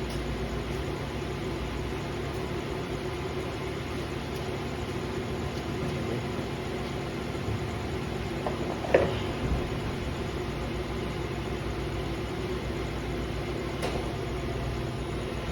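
2016 Toyota Sienna's V6 engine running steadily at idle, with a short knock about nine seconds in.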